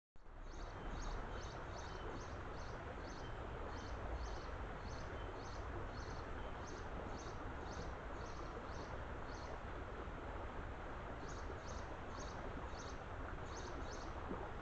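A bird repeating a short, high chirp about two or three times a second, pausing briefly around ten seconds in, then starting up again, over steady background noise.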